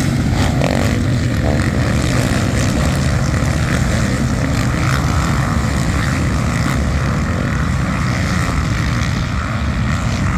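Motocross dirt bike engines running on the track, a steady drone with a heavy low rumble.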